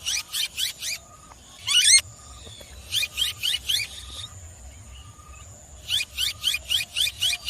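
Rose-ringed (ringneck) parakeet calling in quick bouts of short, high-pitched, repeated calls, about six a second, with one longer sweeping call about two seconds in.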